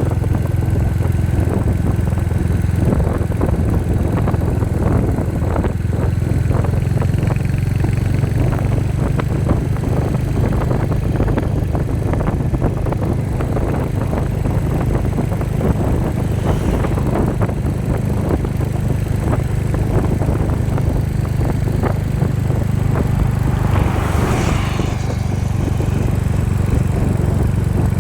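Royal Enfield Hunter 350's 349 cc single-cylinder engine idling steadily, its exhaust pulsing evenly at a constant level. A brief higher wavering sound comes through near the end.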